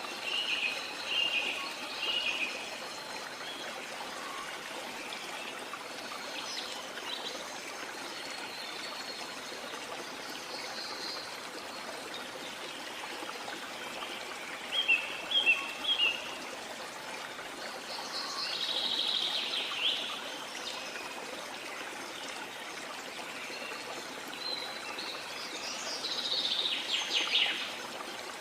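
Rainforest ambience: a steady rush of water with birds calling over it. Short chirping phrases come near the start, three quick loud notes come around the middle, and longer calls follow later on.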